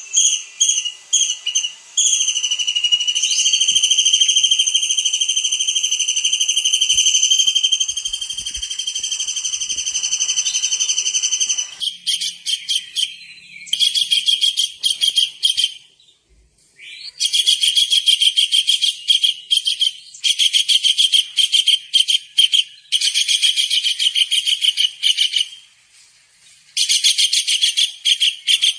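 Tengkek udang (small kingfisher) calling vigorously: a few quick shrill notes, a long steady high whistle held for about ten seconds, then repeated bursts of rapid high trilled notes, each a couple of seconds long with short breaks between.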